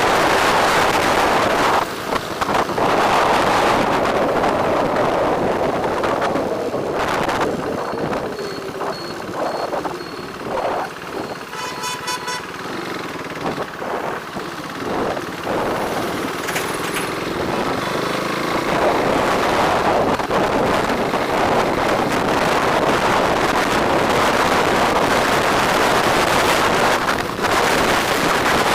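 Wind rushing over the microphone on a moving bike in road traffic, easing off in the middle while vehicle horns honk, one clearly about twelve seconds in.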